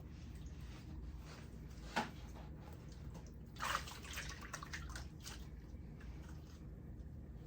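Water dripping and splashing as wet wigs are rinsed and handled, with a sharp click about two seconds in and a short louder splash a little past the middle.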